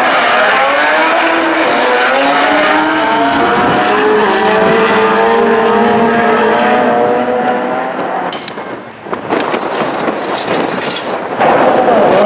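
Honda Civic four-cylinder engines at full throttle on a drag strip, the pitch climbing and dropping back with each gear shift. About eight seconds in the sound cuts to a rushing noise. Near the end another car's engine revs hard during a tire-smoking burnout.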